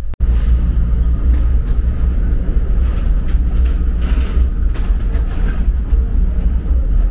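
VIA Rail passenger train running, a steady low rumble with a hiss of noise above it, after a brief dropout at the very start.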